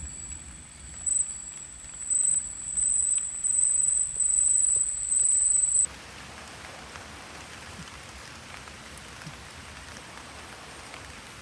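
Steady rain falling in a forest. For the first half a high, thin whine sounds over it, swelling in several loud spells, then it cuts off suddenly and only the rain is left.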